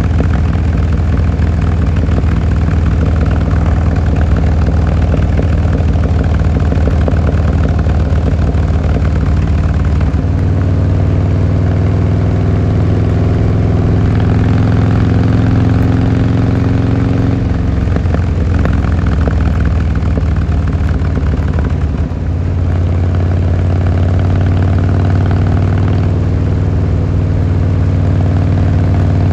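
Harley-Davidson Fat Boy Lo's V-twin engine and exhaust running on the move. The pitch climbs slowly about a third of the way in, changes abruptly just past the middle, and dips briefly about three quarters through before settling again.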